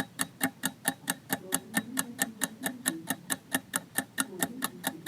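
Countdown-timer sound effect: even clock-like ticks at about four a second, marking the time left to answer the quiz question.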